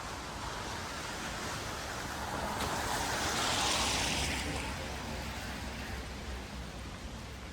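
A vehicle passing on a wet street: tyre hiss swells to a peak about four seconds in and fades away, over a steady low rumble of city background.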